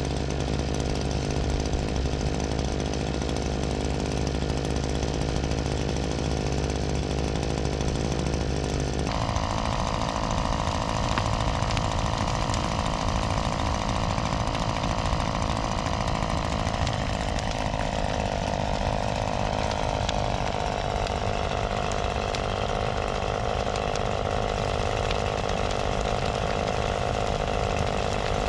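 Diesel engine of a compact construction machine running steadily. Its note changes abruptly about nine seconds in and shifts again around seventeen seconds.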